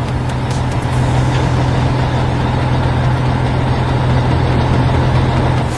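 Heavy construction machinery engine sound effect: a steady, low diesel drone from an excavator working beside a dump truck. It cuts off abruptly at the end.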